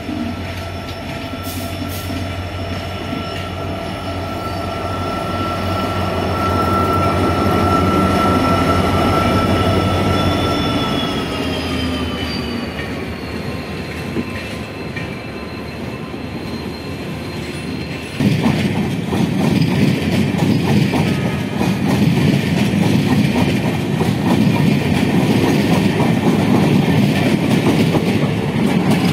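WDG4 diesel locomotive (EMD 16-cylinder two-stroke engine) running past at speed: a steady engine drone and whine that drop in pitch as it goes by about eleven to fourteen seconds in. From about eighteen seconds in the passenger coaches pass close, a louder rumble with wheels clattering over the rail joints.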